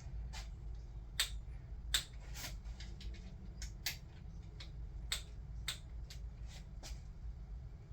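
Torque wrench preset to 15 foot-pounds tightening the camshaft cap bolts on a Toyota 2JZ cylinder head: a string of sharp, irregular metallic clicks over a steady low hum.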